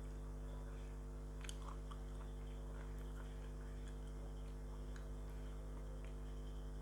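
Close-up eating sounds: chewing with scattered small crunchy clicks and crackles, one sharper crunch about one and a half seconds in, over a steady low electrical hum.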